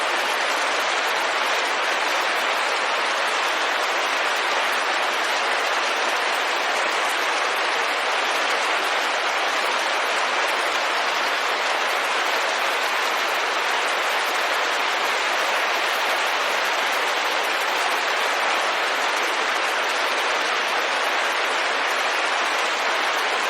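Steady rain pattering on a window, an even, unbroken hiss.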